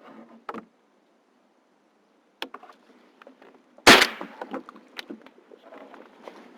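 Gear being handled: scattered light clicks and knocks, with one loud sharp knock about four seconds in.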